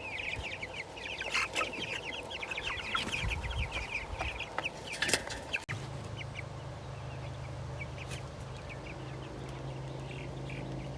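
A flock of young meat chickens cheeping and clucking, a busy run of rapid high calls for the first half. The calls thin out after about six seconds, when a steady low hum comes in.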